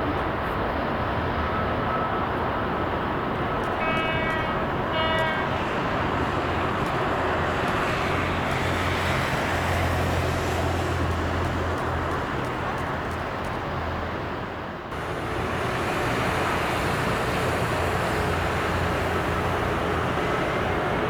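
Steady rushing noise of jet aircraft engines, with a deeper hum building in the middle, two short high beeps about four and five seconds in, and an abrupt change in the noise about fifteen seconds in.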